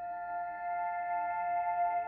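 Ambient background music: a slow, sustained synth pad chord with held tones, a new note entering around the start.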